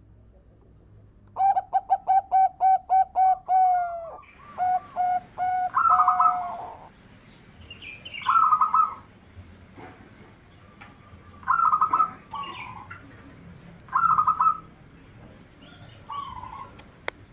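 Zebra dove (perkutut) cooing: a fast run of about a dozen evenly spaced staccato notes, then a few shorter, higher warbled phrases at intervals of two to three seconds. A single sharp click comes near the end.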